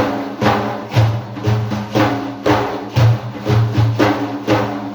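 Instrumental break in a praise song: drums beating a steady rhythm of about two strokes a second, over a sustained pitched accompaniment.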